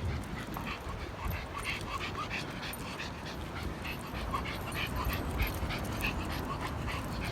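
A dog panting, short quick breaths repeating over a steady low rumble.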